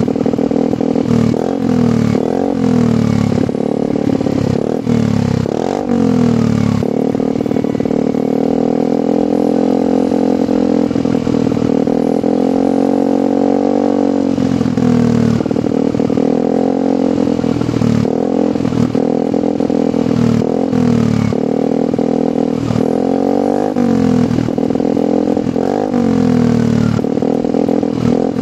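Yamaha NMAX scooter's single-cylinder engine revved through a long oval replica DOS aftermarket silencer, the pitch rising and falling in repeated throttle blips. The revs are held fairly steady for several seconds near the middle of the run.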